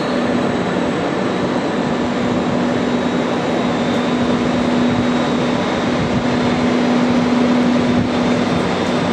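Red DB Regio double-deck regional train running past on the track: a steady rolling rumble carrying a steady hum, growing a little louder toward the end.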